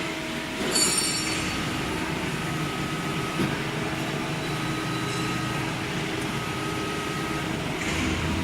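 Metal-cutting band saw running steadily, with a sharp metallic clank about a second in.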